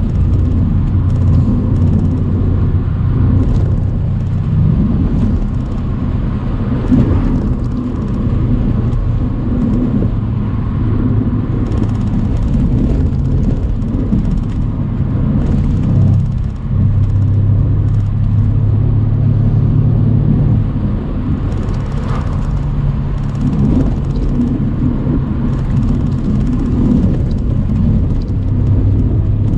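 Mercedes-AMG C63 cabriolet's twin-turbo 4.0-litre V8 pulling the car along a country road, its note rising and falling with the throttle and holding steady for a few seconds past the middle, with a short drop about halfway through.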